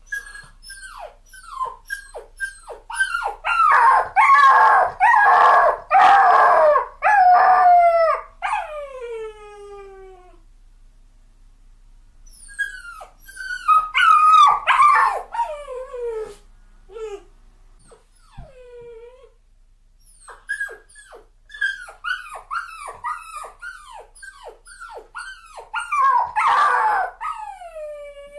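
A dog crying: three bouts of short, high whines that fall in pitch, each building into louder, drawn-out whimpering howls, with short pauses between the bouts.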